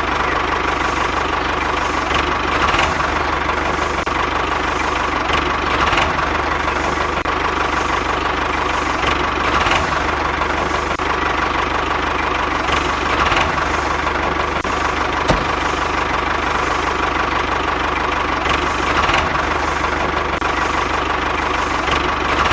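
A small engine running steadily with a constant hum, swelling briefly every few seconds.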